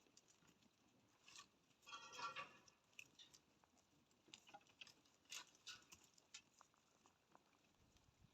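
Near silence with faint scattered clicks and crackles, and a slightly longer faint rustle about two seconds in.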